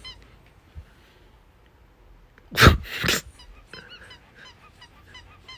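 A pet making a run of small, high squeaks, with two loud, honk-like calls close together about halfway through.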